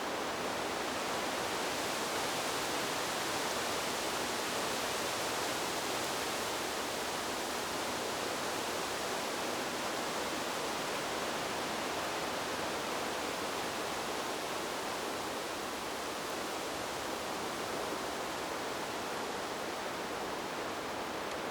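Wind blowing through trees: a steady, even rushing hiss that barely swells or fades.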